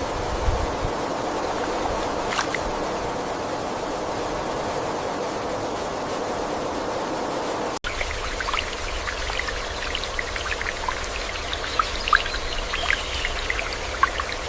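Running water, a steady rushing stream. About halfway through it cuts to a different water ambience: a low rumble with many short, high-pitched splashes and blips scattered over it.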